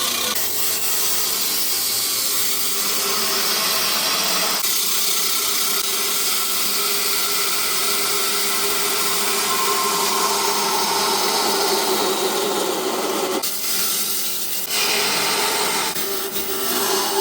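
A power tool working wood: a steady rasping noise over a motor hum, with a brief break about thirteen seconds in.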